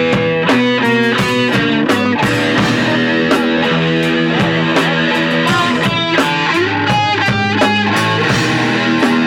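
Punk rock music: distorted electric guitar chords over a steady drum beat, with a few sliding guitar notes a little past the middle.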